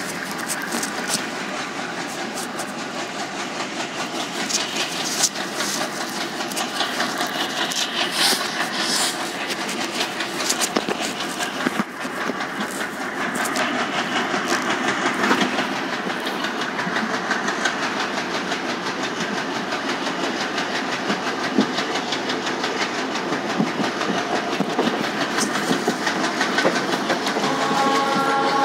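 Passenger train coach running along the track, heard from its open doorway: wheels clattering over the rails with a steady rush of wind and rumble, growing slightly louder. A few steady tones join in near the end.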